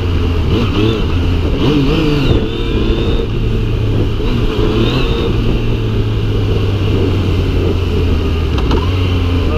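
Yamaha MT-09's three-cylinder engine running as the bike rides along a street, over a steady low rumble. The revs rise and fall a few times in the first three seconds and again about five seconds in.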